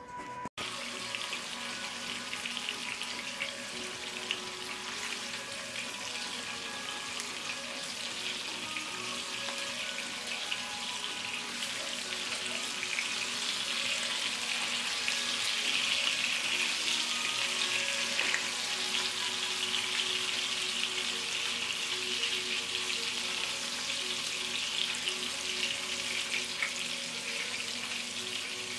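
Salmon pieces sizzling in hot oil in a small frying pan, a steady frying hiss that grows a little louder midway.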